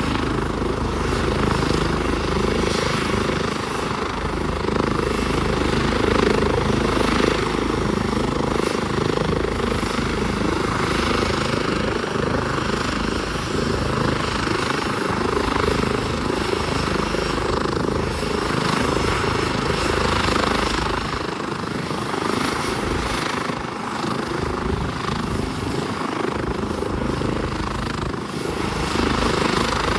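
Helicopter running close by: a steady, loud rotor and engine noise that dips slightly for a few seconds and picks up again near the end.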